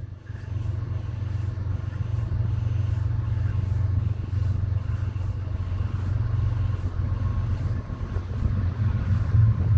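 Low, steady diesel rumble of an approaching BNSF train's SD70ACe locomotives, growing slowly louder.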